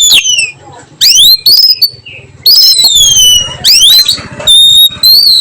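Oriental magpie-robin (kacer) singing loud, clear whistled phrases, about five in a row with short gaps between them. The phrases are quick rising sweeps and long falling whistles, with a few short held notes near the end, in the drawn-out 'nyiul' whistling style.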